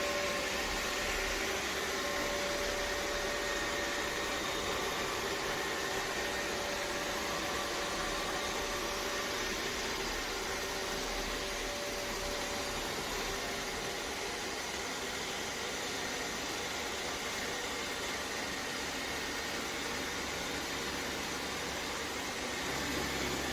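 iRobot Roomba Vac Essential (Q0120) robot vacuum running while it searches for its charging dock: a steady whirring hiss of its suction motor and brushes with a faint hum, the clearest part of which fades about halfway through.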